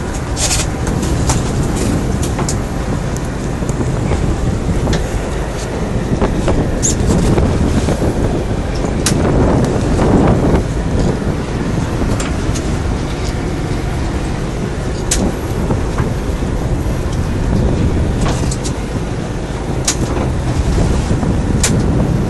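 Fishing boat's engine running steadily, with wind buffeting the microphone and scattered short knocks and splashes.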